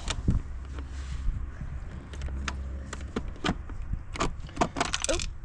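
Scattered light metallic clinks and knocks as hand tools, a bolt and the exhaust silencer on a dirt bike are handled, with a small cluster of clicks near the end.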